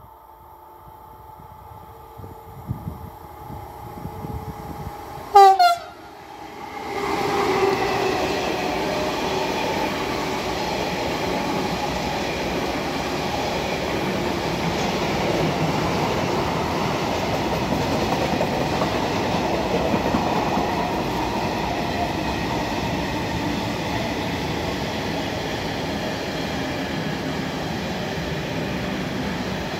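An approaching freight train sounds a short horn blast about five seconds in. Then a long train of covered hopper wagons rolls past close by, a loud, steady noise of wheels on rails with some clickety-clack.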